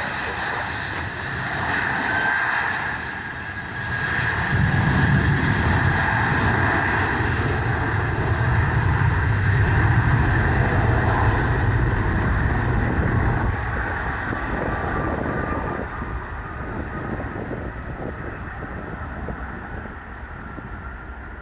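JetBlue airliner's twin turbofan engines at takeoff power during a rolling takeoff: a high fan whine over a heavy rumble. The rumble swells about four seconds in, holds, then fades over the last third as the jet climbs away, the whine sliding slightly lower in pitch.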